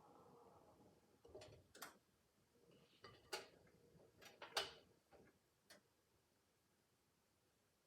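A handful of sharp clicks and knocks, about seven spread over four seconds, from a Miele W5801 washing machine at the end of its wash program.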